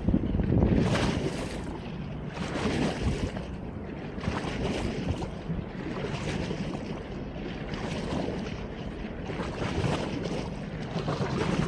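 Wind rushing and buffeting the phone's microphone, with a low rumble and soft surges that rise and fall every second or two.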